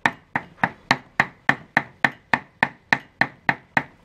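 Knife mincing raw pork on a chopping board: steady, even chops at about three and a half a second, to make minced pork for stir-fried vermicelli noodles.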